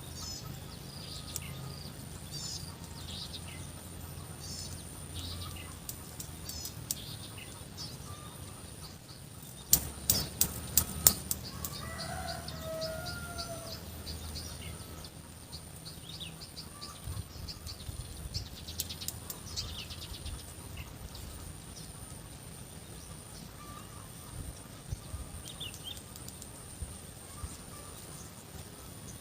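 Birds chirping in short calls again and again, with a quick run of about six sharp knocks about ten seconds in, the loudest thing heard, and a brief lower call just after.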